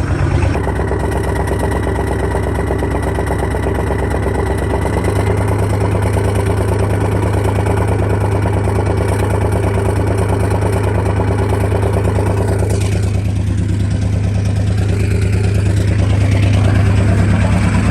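Straight-piped 7.3L Powerstroke V8 turbo diesel idling steadily just after a cold start at about −38 °C. Its low note strengthens about five seconds in and grows a little louder near the end.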